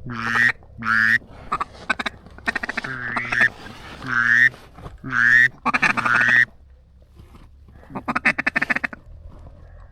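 Duck quacking: a string of loud, drawn-out quacks over the first six seconds or so, then a quick run of short quacks around eight to nine seconds in.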